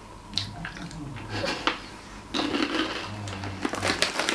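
People chewing crunchy Takis rolled corn tortilla chips, with scattered irregular crunches and mouth smacking.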